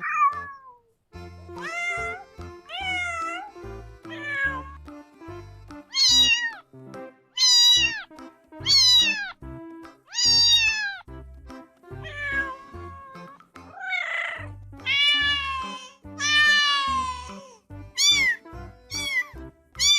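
Domestic cats meowing over and over, about fifteen separate meows, each rising and then falling in pitch, over background music.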